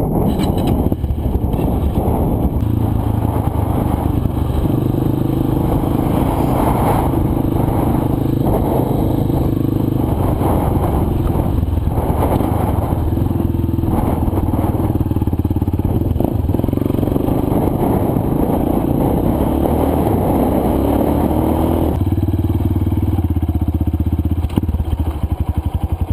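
Single-cylinder four-stroke dirt bike engines running on a trail ride, with the pitch stepping up and down a few times as the throttle and gears change.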